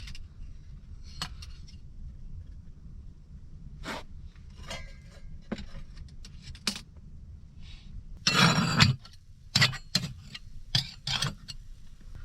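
Kitchenware being handled: a series of separate clinks and knocks, with a short scrape about eight seconds in, then more quick clinks.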